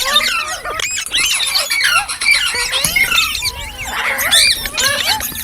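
Green parrots chirping and squawking: many quick, overlapping rising and falling calls, shrill and continuous, as from several birds at once.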